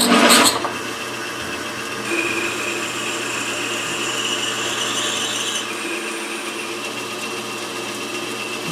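Metal lathe running while a cutting tool faces off the rough end of a half-inch rod held in a four-jaw chuck. It opens with a loud burst, then runs steadily with a low motor hum and a high cutting whine that rises a little through the middle and drops back.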